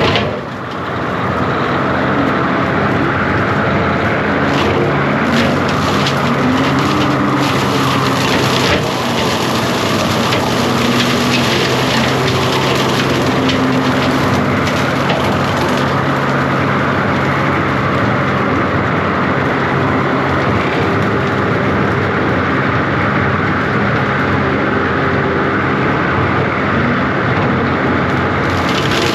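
Diesel engine of a John Deere 333G compact track loader running steadily under load, with repeated cracking and snapping of limbs and brush being cut through, heaviest in the first half.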